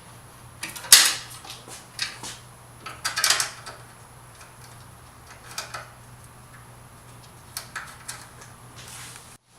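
Hand tools and small 10 mm bolts clinking during work on the radiator brackets: scattered metallic clicks and knocks a second or more apart, over a faint steady low hum.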